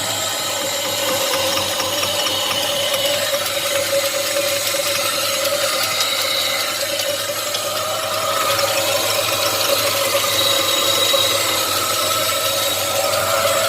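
Chevrolet 5.3 V8 running with a rapid, steady mechanical ticking from the top end, which the owner suspects is a bent pushrod or a rocker arm.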